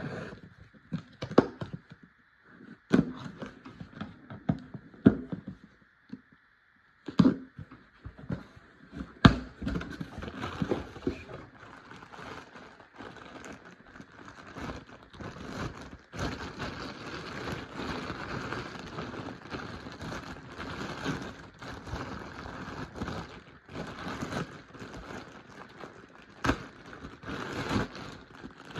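A package being opened and a windbreaker handled: sharp knocks and taps over the first several seconds, then steady rustling and crinkling of wrapping and jacket fabric, with more taps mixed in.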